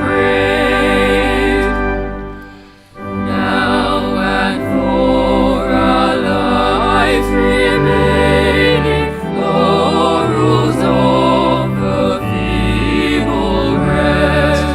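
A hymn sung by a choir with instrumental accompaniment, with a short break between phrases about three seconds in.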